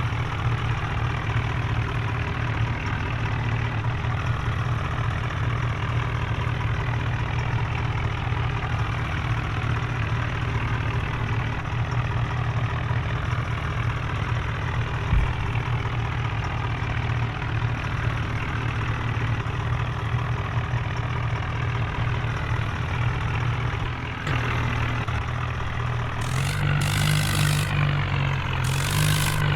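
Tractor diesel engine running steadily. Its note rises about three-quarters of the way through, and two short loud rushing noises come near the end.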